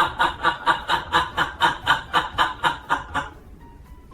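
Rapid, rhythmic laughter, about four to five 'ha's a second, breaking off about three seconds in.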